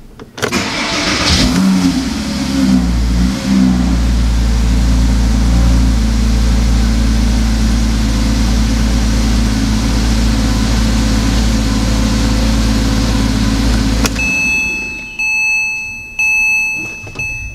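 Porsche Cayman 987's flat-six engine started from inside the cabin on its first start after an oil change: a brief crank, a rev flare as it catches, then a steady idle. Near the end the engine sound stops and a steady electronic beep with short breaks is heard.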